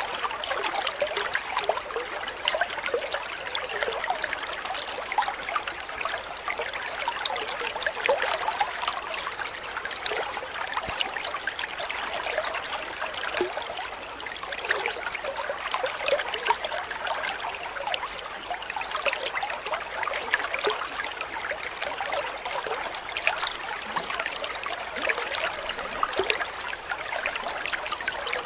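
Steady trickling, babbling water, the running-water bed laid under a bird-tutor recording.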